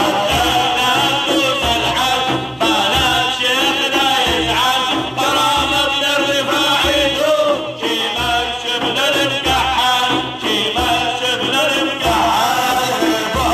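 A male voice sings an Arabic madih, a devotional praise song, in an ornamented Middle Eastern melody over a steady low drum beat.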